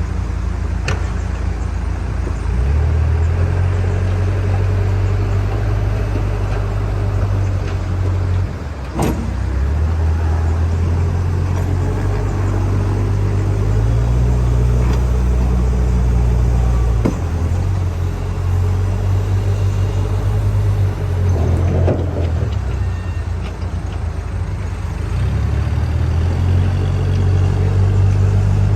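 JCB backhoe loader's diesel engine running, its low note stepping up and down as the load changes while it works. A few sharp knocks are heard, the clearest about nine seconds in.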